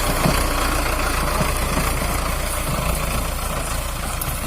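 Mahindra tractor's four-cylinder diesel engine running steadily.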